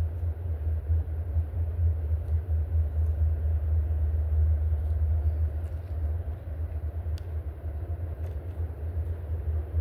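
Steady low rumble throughout, with a faint short high chirp about seven seconds in.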